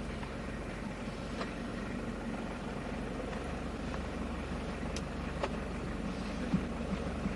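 Steady low rumble of a car engine idling close by, with a few faint clicks.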